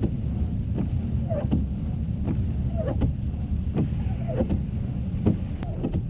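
Car driving on snowy roads heard from inside the cabin: steady low rumble of road and engine noise, with a regular tick about every three-quarters of a second.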